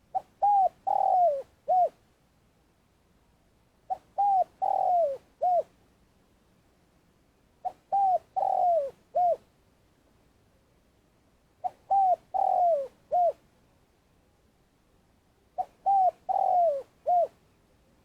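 Spotted dove giving its long calling coo: five repeated phrases about four seconds apart, each a quick run of hoots with a longer falling note near the end and a short closing hoot.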